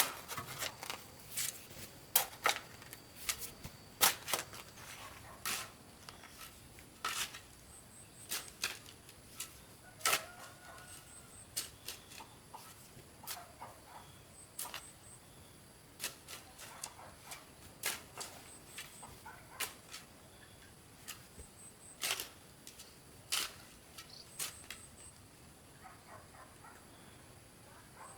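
Irregular sharp clicks and knocks, about one or two a second, with faint short high chirps and a steady faint high tone behind them.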